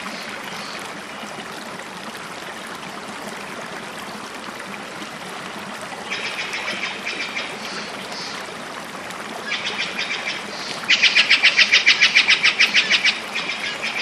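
Tropical forest soundscape: a bird gives rapid pulsed calls, about six a second, in three spells over a steady rushing hiss. The last spell, near the end, is the loudest.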